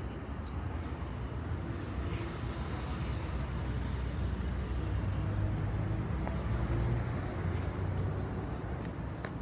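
Street traffic: a steady low motor-vehicle rumble that swells around the middle, as if a vehicle passes close by, with a few faint clicks.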